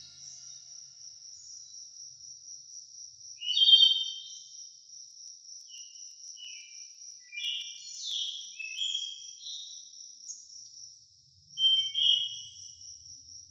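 A steady high insect trill, with short bird chirps and song phrases breaking in several times, loudest about four seconds in and again near the end.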